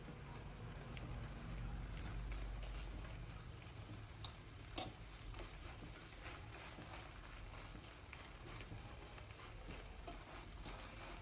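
Eggs and vegetables frying faintly in a pan, with light clicks of a cooking utensil against the pan and two sharper knocks about four and five seconds in.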